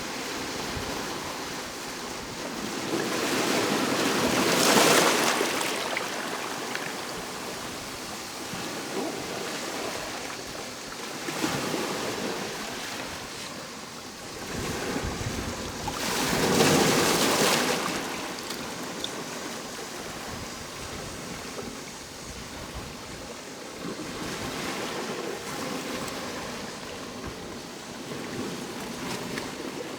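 Ocean waves breaking on the shore: a steady wash of surf, with two bigger waves swelling and crashing about five seconds in and again around seventeen seconds, and smaller ones between.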